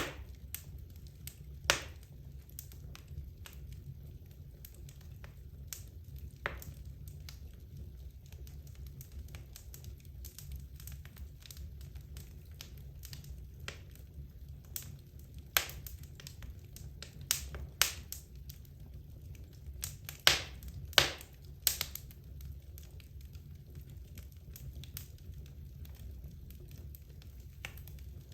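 Wood logs burning in a fireplace, crackling and popping with irregular sharp snaps over a steady low rumble of the fire. The pops come thickest and loudest about two-thirds of the way through.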